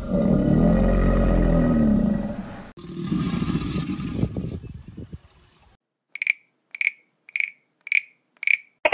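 A deep animal roar lasting nearly three seconds that cuts off abruptly, followed by a rougher call that fades away. Near the end come five short high-pitched peeps, evenly spaced about half a second apart.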